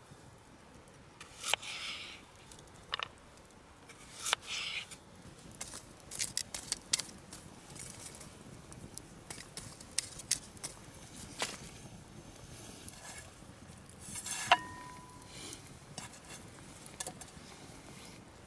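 Camp cookware and utensils being handled: scattered light clinks and knocks, with one short metallic ring about three quarters of the way through.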